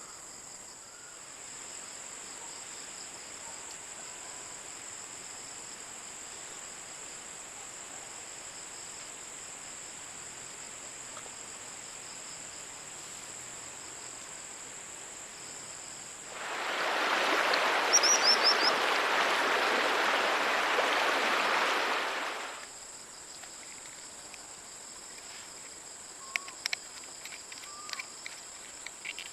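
Steady high-pitched chorus of crickets or other insects. About two-thirds of the way in, a loud even rushing hiss rises for about six seconds and then stops. Near the end come a few short sharp clicks.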